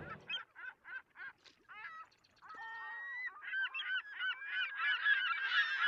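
Birds calling: a run of short calls that bend up and down in pitch, several a second, with one longer held call near the middle. The calls grow louder and overlap more toward the end.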